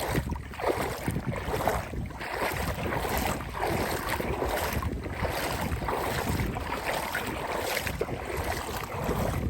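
Wind buffeting the microphone: a continuous rush of noise with a heavy low rumble that rises and falls unevenly.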